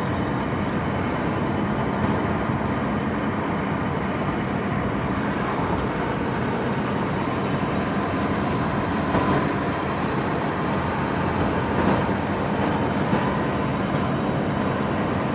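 Steady whine from the front end of a 2002 VW GTI VR6 while driving, over steady road and tyre noise. The whine follows road speed and does not change when the car is taken out of gear or the clutch is pressed.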